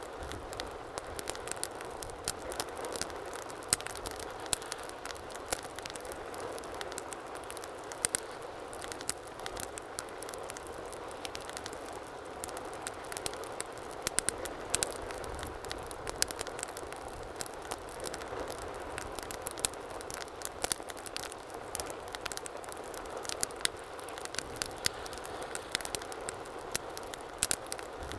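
Wood fire burning in a fireplace: a steady soft hiss under frequent irregular sharp crackles and pops.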